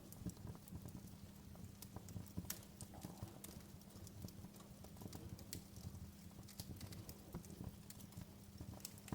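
Wood fire in a fireplace crackling: irregular small pops and snaps over a low, steady rumble.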